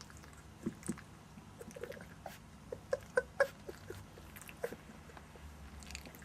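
Month-old puppies playing: scattered short squeaks and yips with small clicks and scuffling, busiest about three seconds in, over a faint steady hum.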